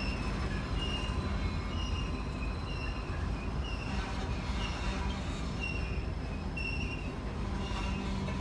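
Freight train rolling past with a steady low rumble, and a short high ding repeating about once a second over it.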